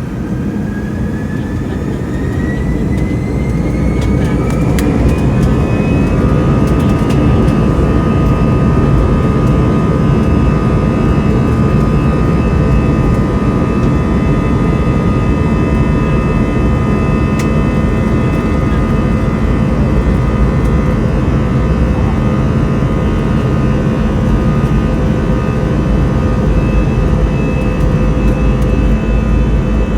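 Airbus A321 jet engines spooling up to takeoff thrust: a whine rises in pitch and the sound grows louder over the first six seconds or so, then holds loud and steady with a steady whine over a dense low rumble.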